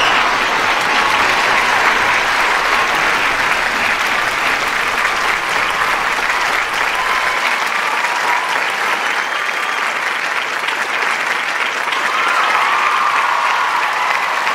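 A large audience applauding steadily, with a few voices shouting and whooping over the clapping.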